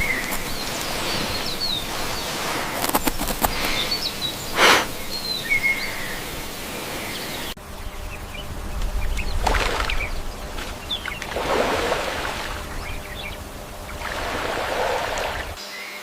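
Short bird chirps over a noisy outdoor background, with several swells of rustling noise in the second half and an abrupt change in the background about seven and a half seconds in.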